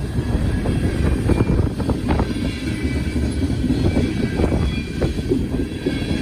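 Loaded tank cars of an ethanol freight train rolling past close by: a steady heavy rumble of steel wheels on rail, with scattered clacks as the wheels cross rail joints.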